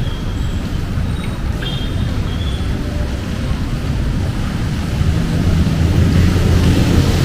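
Road traffic with a steady low engine rumble. Near the end a vehicle's engine hum grows louder as it draws closer.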